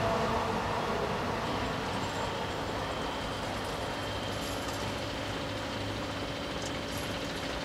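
A passing train's rumble fading away as it recedes from the level crossing. About a second and a half in, a steady hum from the EBÜT 80 crossing's barrier drives begins as the full barriers rise.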